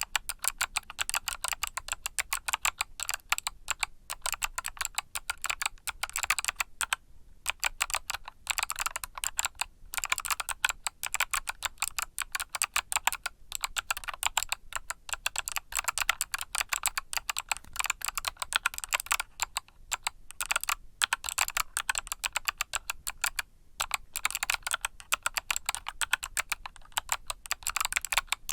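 Mechanical keyboard with Kailh Box Summer switches being typed on, a fast, continuous run of key clicks broken by a few brief pauses.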